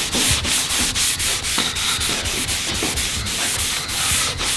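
Rapid back-and-forth rubbing strokes on a hardwood cutting board, a loud dry hiss of sanding or rubbing with a few strokes a second.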